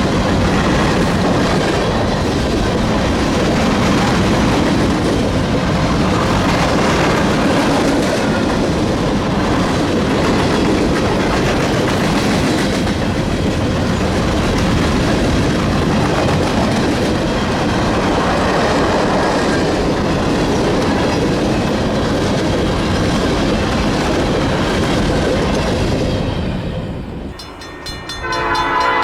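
A train rolling past with steady wheel-on-rail rumble and clatter. Near the end the rumble drops away and a locomotive air horn starts blowing a chord of several tones.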